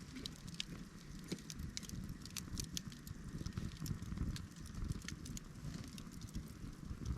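Wood fire crackling, with frequent irregular sharp pops over a low steady rumble of burning.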